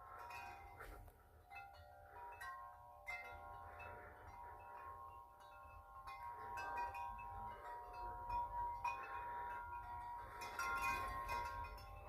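Wind chime ringing in gusty wind, many tones struck over and over and left to ring, with wind rumbling on the microphone. The chiming grows louder over the second half.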